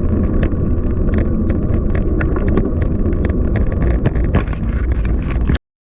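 Wind rumbling on the microphone over outdoor street noise, with frequent small clicks and rattles; the sound cuts off abruptly near the end.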